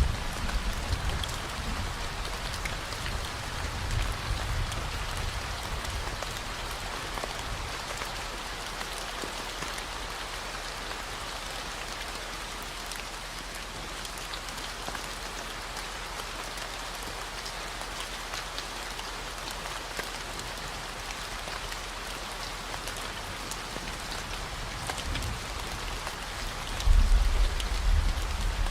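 Steady rain falling, a dense patter of drops, over a continuous low 40 Hz gamma-wave tone. Deeper rumbling swells rise just after the start, again about four seconds in, and more loudly near the end.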